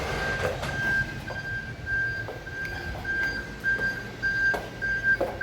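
A high electronic beeping tone, pulsing on and off about twice a second, over background noise with a few short knocks.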